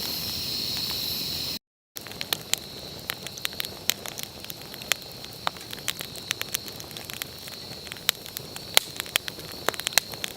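A wood campfire crackling with many sharp, irregular pops after a brief cut, over a steady high insect drone. In the first second and a half only the insect drone is heard.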